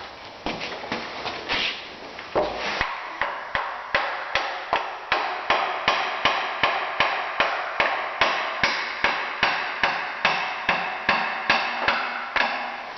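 Rubber mallet tapping repeatedly on the stuck sump of a Briggs & Stratton engine to break it loose from the block: a few scattered knocks, then steady taps about three a second, each ringing briefly.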